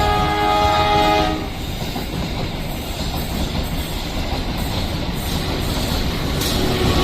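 A locomotive's horn sounds a chord of several notes and cuts off about a second in. Then comes the steady rumble and wheel clatter of a train running past over the level crossing.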